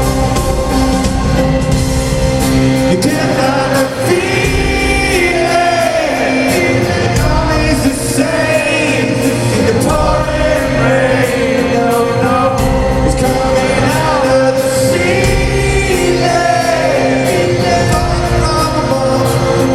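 Live rock band playing, with singing coming in about three seconds in over steady guitars and bass.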